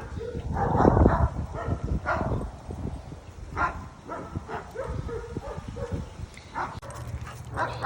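Dog barking in short bursts, several times, while playing.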